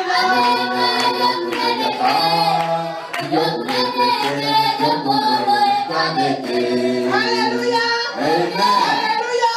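A group of people singing together unaccompanied, many voices holding long notes in harmony.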